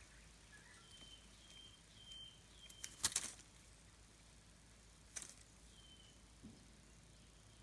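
Quiet scene at a shikra's nest: faint short high chirps repeat every half second or so. A burst of crackling rustles comes about three seconds in, and a shorter one about five seconds in.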